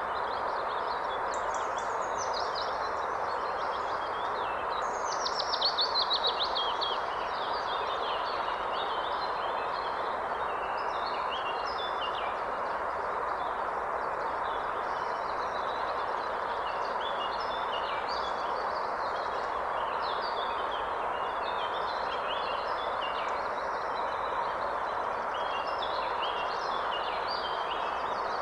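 Steady rush of a forest river's flowing water, with several songbirds singing over it throughout. About five seconds in, one bird gives a louder song, a fast run of notes falling in pitch.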